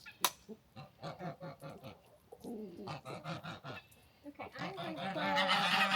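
Birds calling: a run of short repeated calls, then longer gliding calls that grow louder near the end, with a single sharp click early on.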